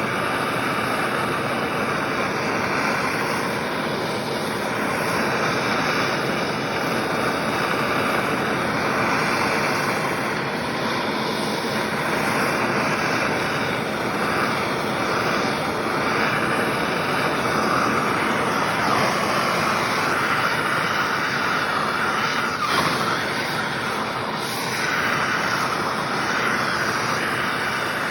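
MAPP gas plumber's torch burning with a steady hissing rush of flame, preheating a steel chainsaw muffler before brazing.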